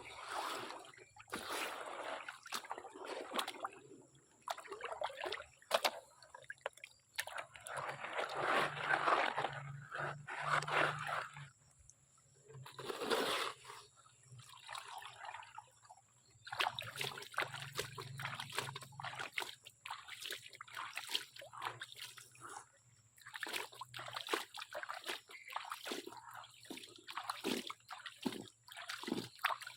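Water sloshing and splashing in a gold pan as sediment is swirled and washed out by hand, in uneven surges with short pauses.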